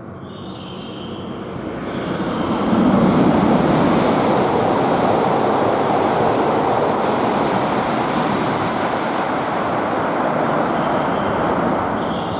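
Tohoku Shinkansen train passing through the station at high speed: a rushing noise that builds over about three seconds, then stays loud and steady until it cuts off near the end.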